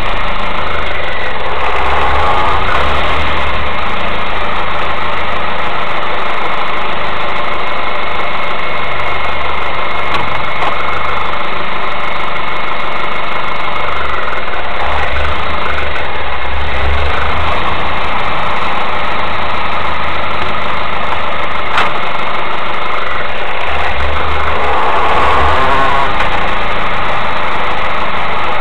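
Mazda 3's engine running at idle, with a low rumble that swells three times, about a second in, in the middle and near the end. The owner suspects a failed engine mount, which he believes causes a steel-on-steel knocking at low revs.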